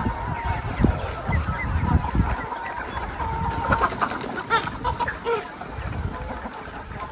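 A flock of chickens clucking and calling in many short notes, over a run of low thumps.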